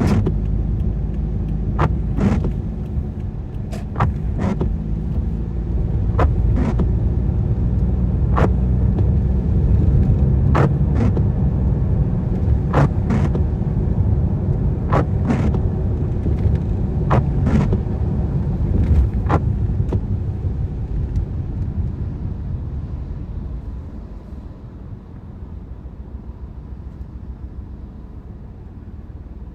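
Car cabin rumble while driving in rain, with the windscreen wipers clicking in pairs about every two seconds. The clicks stop about twenty seconds in, and the rumble then quietens.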